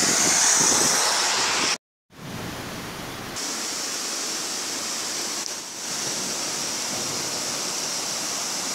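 Steady rushing hiss of heavy rain and wind on a rain-soaked phone microphone held at a car window. It drops out to a brief silence about two seconds in, then carries on a little quieter.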